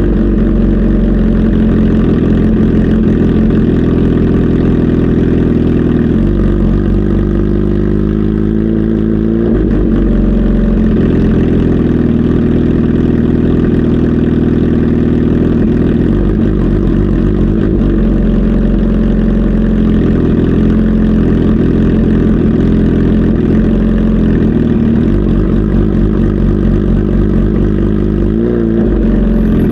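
Kawasaki Z H2 SE's supercharged inline-four engine idling steadily, with brief small rises and dips in engine speed about nine seconds in and again near the end.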